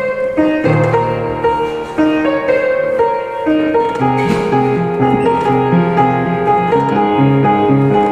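Piano music: a slow melody of held notes, joined about four seconds in by a steady pattern of repeated lower notes underneath.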